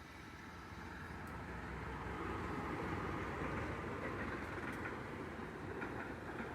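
A train approaching and running by on the rails, its rumble growing over the first two seconds or so and then holding steady.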